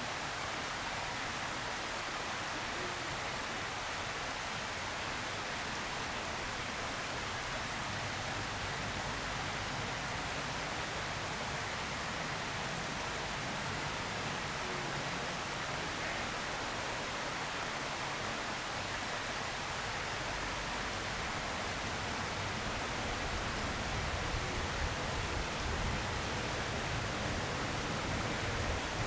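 A steady, even hiss with no distinct sounds in it, and a little more low rumble from about 24 seconds in.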